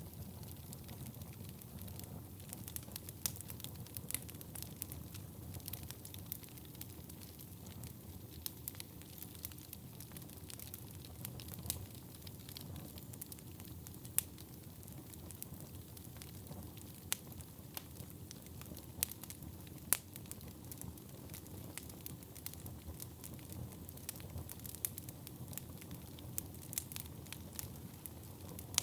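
Wood fire burning with a steady low rumble and frequent sharp, irregular crackles and pops, a few of them louder.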